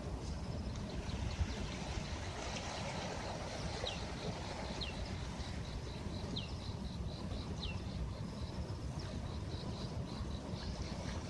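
Steady low noise of sea waves on a beach, with birds calling over it: several short downward-sliding chirps a second or so apart, and quick high pips.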